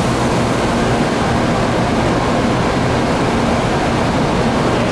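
Doctor Yellow, the Class 923 shinkansen inspection train, setting off slowly from the platform: a loud, steady rushing noise with no distinct tone.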